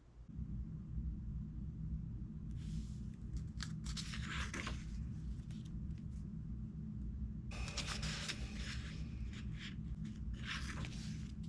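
A steady low rumble with intermittent rustling and scraping noises over it.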